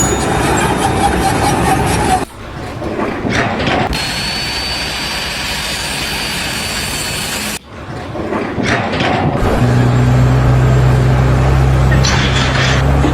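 Engine and machinery noise across several abrupt cuts. From about ten seconds in, an engine runs with a steady low hum.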